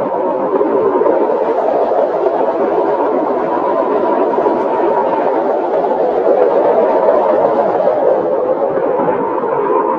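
Steady wind noise: an even rushing hiss with most of its weight in the low middle range, gently swelling and easing without a break.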